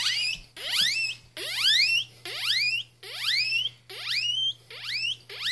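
A man imitating a guinea pig's wheek with his mouth: a run of about eight squeals, each sliding steeply up from low to high pitch, a little more than one a second.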